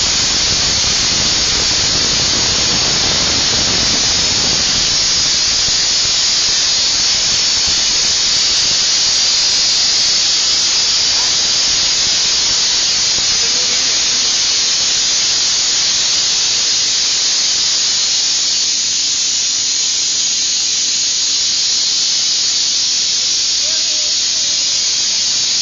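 Compressed air blowing out in a steady, loud hiss, with a deeper rushing underneath for the first several seconds that then dies away.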